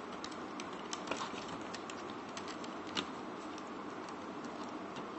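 Small plastic clicks and taps from a 1:28-scale toy mech's parts being handled and pushed into place during transformation, scattered and irregular over a steady hiss, the loudest click about three seconds in.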